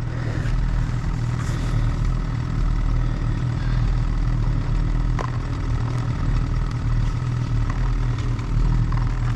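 Snowmobile engine running steadily at low revs in deep powder snow.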